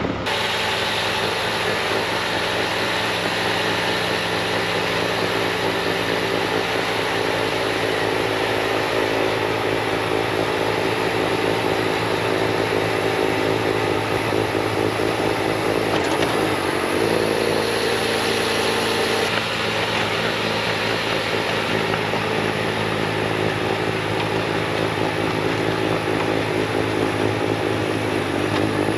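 Bobcat T66 compact track loader's diesel engine running steadily at full throttle, driving a snowblower attachment.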